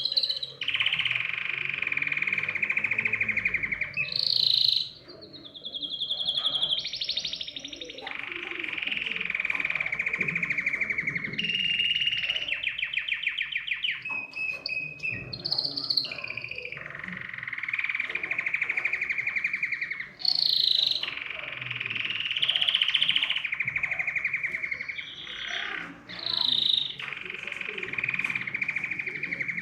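Domestic canary singing: long, rapid trills held for a few seconds each, broken by short, higher chirps between phrases.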